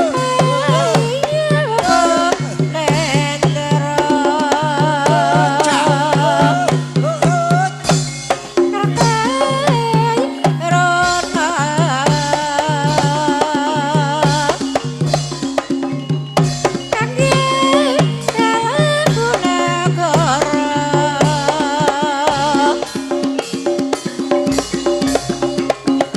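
Banyumasan gending ebeg: Javanese gamelan music with a steady hand-drum pattern driving a dense layer of struck percussion, and a singer's wavering, ornamented melody over it.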